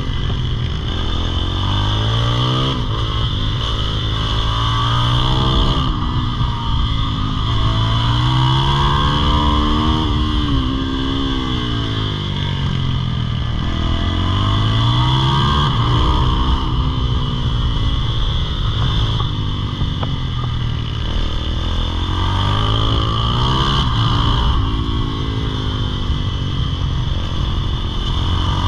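Single-cylinder supermoto engine heard from on board while ridden hard around a tight track: the revs climb on the throttle and drop off into each corner, over and over every few seconds, with steady wind noise.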